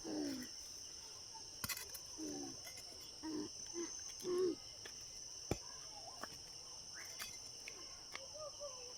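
Steady high-pitched chirring of crickets, with a few short voice sounds in the first half and two sharp knocks, about one and a half seconds in and past halfway.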